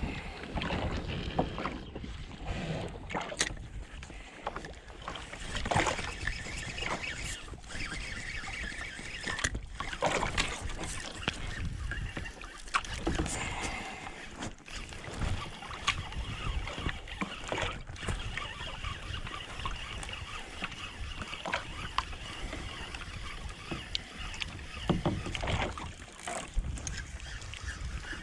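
Kayak on the water: water lapping and splashing around the hull, with scattered knocks and clicks throughout.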